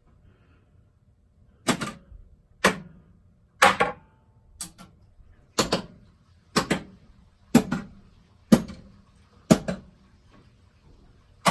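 Williams High Speed pinball machine's solenoid coils firing one at a time in the coil test: a sharp clack about once a second, each coil pulsed in turn.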